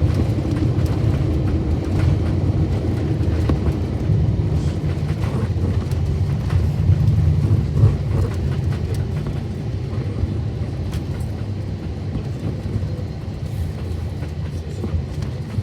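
Steady low rumble inside the cabin of an Airbus A321-200 rolling on the ground after landing, with a few light knocks. It slowly gets quieter as the aircraft slows.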